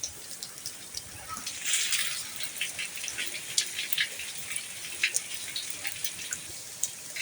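Rain tapering off: scattered water drops dripping and splashing over a steady light hiss of rain, with a brief louder rush of water about two seconds in.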